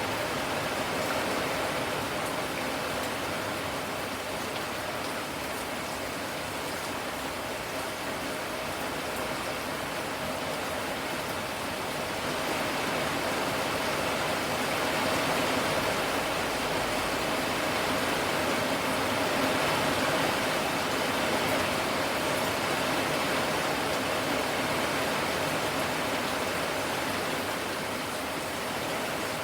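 Steady rain falling, a continuous even hiss that grows a little heavier partway through and eases slightly near the end.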